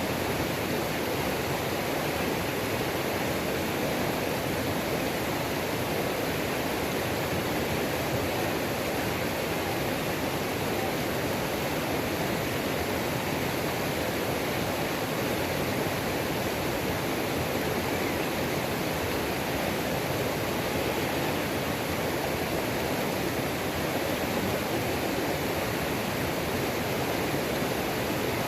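Waterfall on a mountain creek, water pouring and splashing in a steady, unbroken rush.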